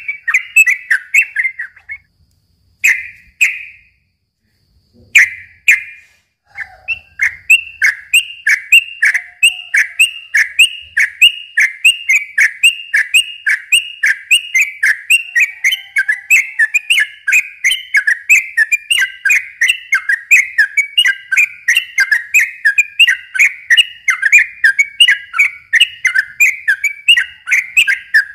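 Sooty-headed bulbul (trucukan) singing a long run of short, rapidly repeated whistled notes at about three a second. In the first six seconds two brief phrases are separated by pauses; after that the song runs on without a break.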